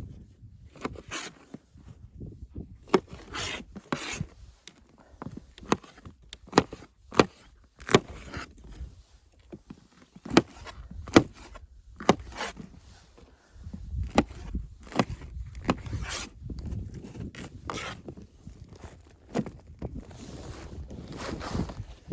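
A string of irregular sharp knocks and clicks, like wood or gear being handled, with rubbing and rustling between them and a low rumble in the second half.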